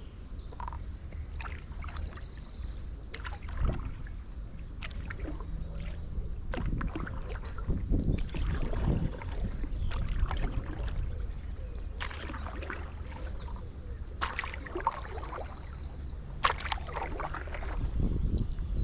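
Stand-up paddleboard paddle dipping and pulling through canal water, with irregular splashes and drips, over a steady low wind rumble on the microphone.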